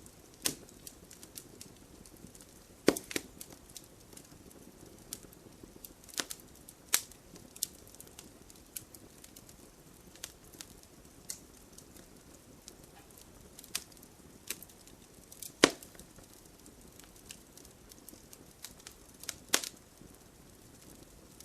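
Wood fire in a fireplace crackling: irregular sharp pops and snaps from the burning logs over a soft steady hiss, with a few louder pops scattered through.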